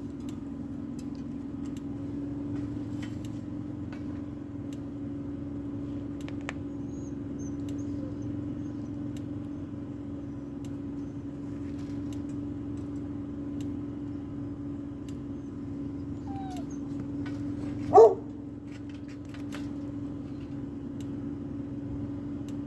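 A dog gives one short, loud yelp near the end, over a steady low hum.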